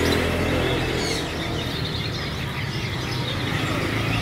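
Many caged songbirds chirping at once, short high calls overlapping throughout, over a low steady hum.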